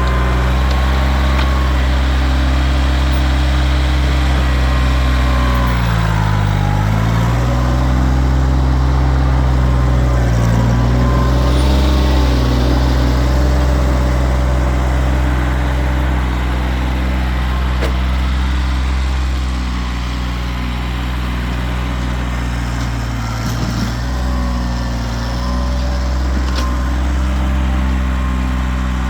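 Kioti tractor's diesel engine running steadily at a constant speed, its pitch sagging and recovering about six seconds in and dipping briefly again a few seconds later.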